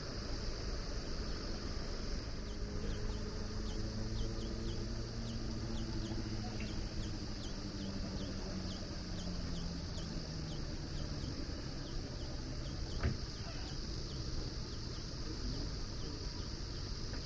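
Steady chorus of chirping insects, crickets or similar, with a low hum underneath whose pitch slowly falls over several seconds, and a single sharp click about 13 seconds in.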